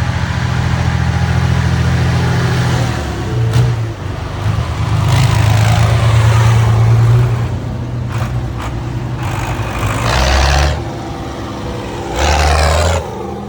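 Motor vehicle engine running with a steady low rumble, with two louder bursts of rushing noise about ten and twelve seconds in.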